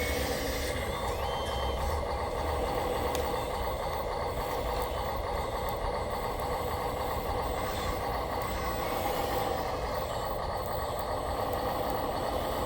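Radio-controlled construction machines running with a steady mechanical hum and whine, and one short high beep about a second in.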